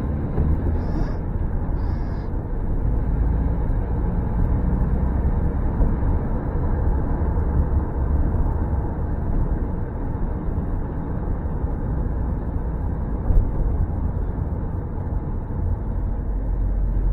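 Steady road and engine noise heard from inside a moving car's cabin, an even low rumble with a couple of small bumps.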